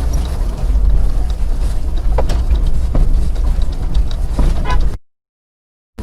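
Road and engine rumble heard from inside a moving car: a steady low drone with scattered small rattles and clicks. Near the end it cuts to silence for about a second, then the rumble returns.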